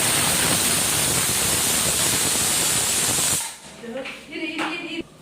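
Pressure cooker whistle letting off steam: a loud, steady hiss with a high whistling edge that cuts off suddenly about three and a half seconds in. Each whistle marks the cooker at full pressure, and the whistles are counted to time the cooking.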